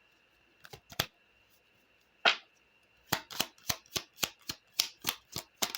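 Sharp clicks of Lenormand cards being handled and laid down: a few single clicks, then from about three seconds in a quick run of about four clicks a second.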